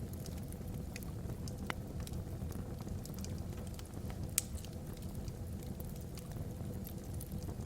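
Wood logs burning in a fireplace: a steady low rumble of the fire with sparse sharp crackles and pops, one louder pop about four seconds in.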